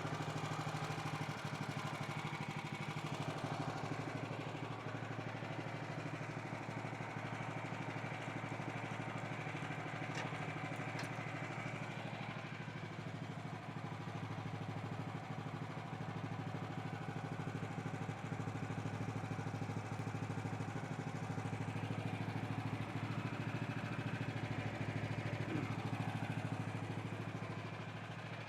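Engine of a Woodland Mills HM126 band sawmill running at a steady speed as the mill saws a large post oak log.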